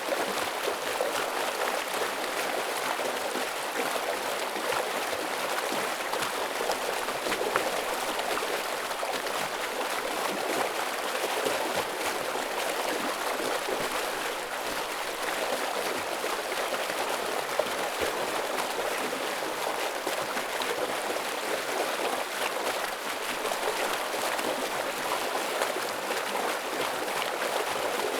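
Stream of fast water flowing over rocks, a steady heavy rush with small splashes and gurgles, unchanging throughout.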